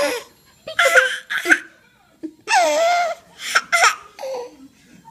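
A baby laughing and squealing in short high-pitched bursts, with one longer squeal a little past halfway.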